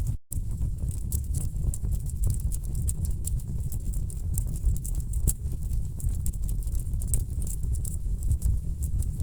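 Wood fire burning in a fireplace, crackling and popping in quick irregular snaps over a steady low rumble of the flames. The sound cuts out for a moment just after the start.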